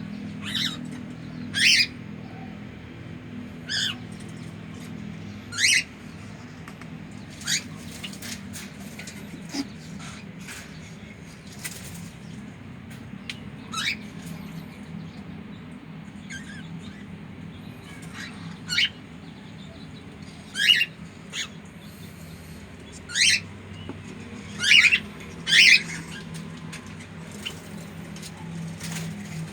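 Cockatiel giving short, sharp chirping calls, one every second or two at an irregular pace, over a steady low hum.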